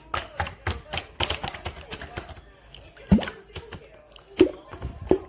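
Pink slime being squeezed and poked by hand, giving irregular sticky clicks and wet popping squelches, with two louder pops about three seconds in and near the end.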